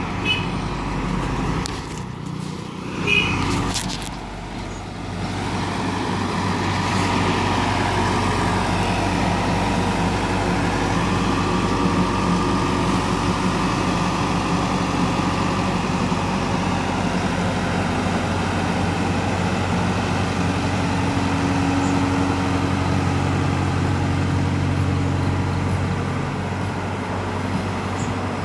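Heavy diesel engine running steadily under load, louder from about six seconds in, with a few sharp clanks near the start.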